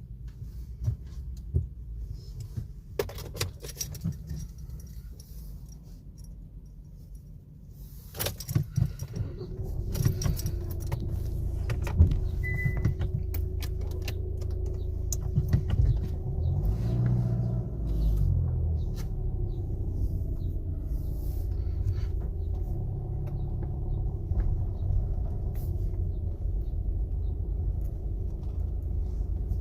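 Inside a car: scattered clicks and a jingle like keys over a faint low rumble, then about eight seconds in a car's engine-like low rumble sets in much louder and runs steadily with a faint hum.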